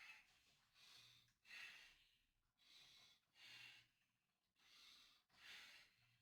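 Faint heavy breathing of a man exercising: a breath in and a stronger breath out, about every two seconds.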